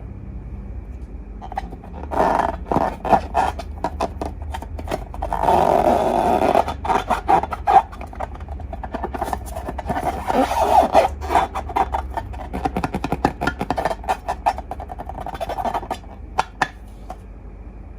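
Slime being squeezed and worked by hand, giving sticky squelching with rapid runs of small clicks and pops. Longer wet, squishy stretches come about five seconds in and again about ten seconds in.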